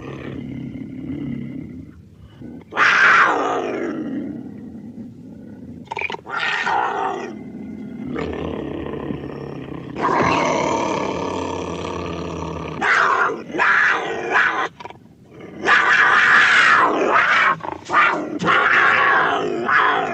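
A series of growls and roars separated by short gaps. One falls in pitch about three seconds in, a long one comes near the middle, and the loudest run near the end.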